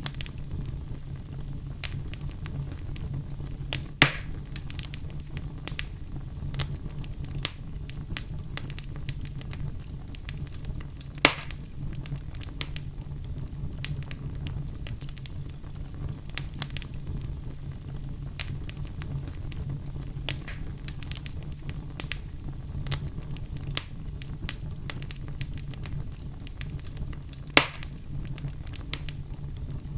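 Wood fire crackling in a fireplace: a steady low rumble of flames under frequent small crackles, with three louder sharp pops spread through.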